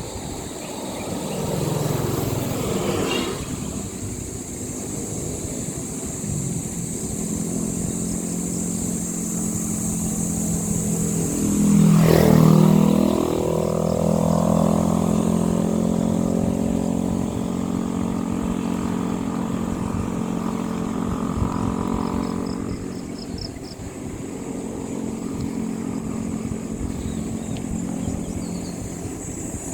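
Motor vehicle engines running on a road, with a steady engine hum. One vehicle passes close about twelve seconds in, the loudest moment, after a lighter pass-by near the start.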